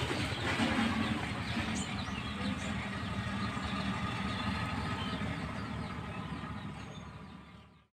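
A motor engine running steadily against outdoor background noise, with a few faint high chirps; the sound fades out near the end.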